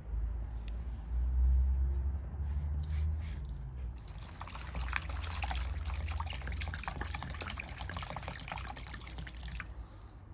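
Water pouring and splashing, starting faintly about three seconds in, growing stronger about a second later and stopping just before the end, over a steady low rumble.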